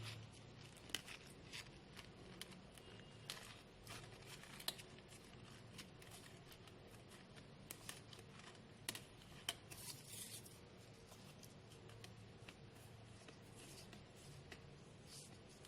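Faint, scattered small clicks and paper crinkles as green floral tape is wound around the wire stem of a crepe paper flower.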